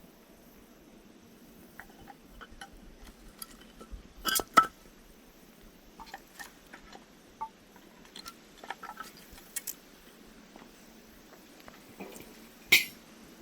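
Wood fire of not-fully-dried firewood crackling: scattered small pops over a low steady hiss of the flames. Two loud pops come close together about four seconds in, and another loud pop comes near the end.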